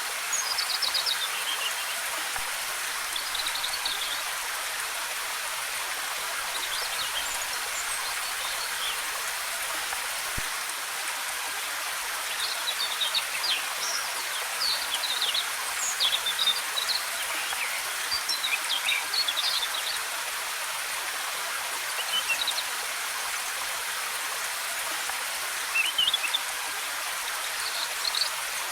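Waterfall rushing steadily, with small birds chirping in short scattered bursts, busiest in the middle.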